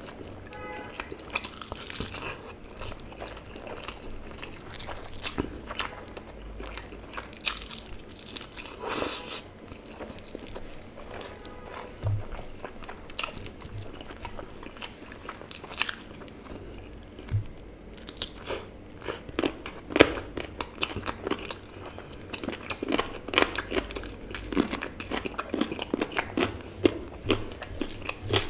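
Close-up eating sounds of a person chewing and biting mouthfuls of rice and chicken leg curry eaten by hand, with many short mouth clicks that come thicker in the last ten seconds.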